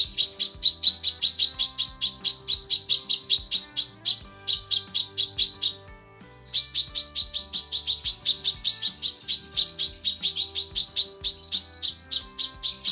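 Cucak kinoi, a female according to the recording, calling in a fast, even string of short, high chirps, about five a second, with one brief pause about six seconds in.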